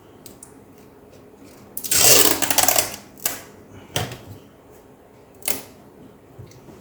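Adhesive tape pulled off the roll with a loud, rapid crackling rip lasting about a second, followed by three shorter rips or tears of the tape.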